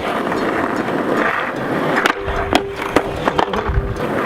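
Skateboard wheels rolling on pavement, then a sharp pop about two seconds in followed by the board clattering and knocking, and a heavy thump of a landing near the end.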